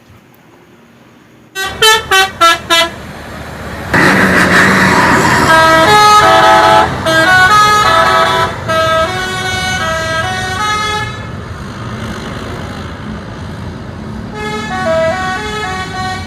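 Electronic sound effect from a toy vehicle's speaker: four short horn toots, then a loud engine-like noise over a jingle of stepped electronic notes.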